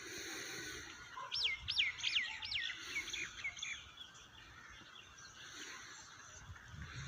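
Steady hiss of falling rain, with a bird calling over it: four loud sweeping notes about a second in, then a few shorter, fainter notes.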